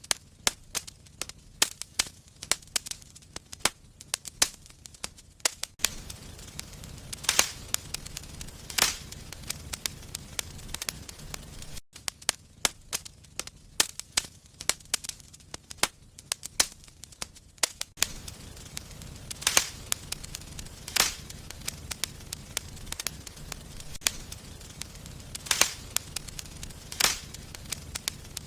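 Wood fire burning in a fireplace, crackling with rapid small snaps and a louder pop every few seconds.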